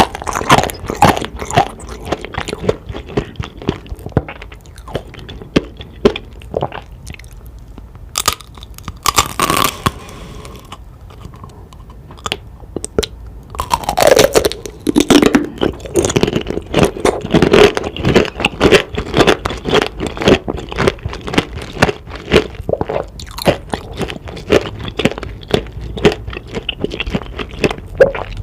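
Close-miked crunching and chewing of candied-fruit tanghulu, the hard sugar shell cracking between the teeth. The crunching thins out for a stretch in the middle and comes back loud and dense about halfway through.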